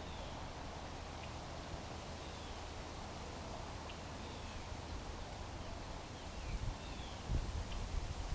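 Faint, short downward-sliding chirps from small birds at a backyard feeder, scattered every second or so over a steady low hum. Low rumbling thumps on the microphone come in near the end.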